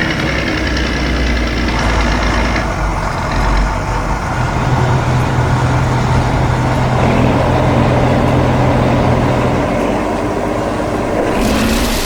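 Heavy truck engine running steadily, with a deeper steady hum joining about four seconds in.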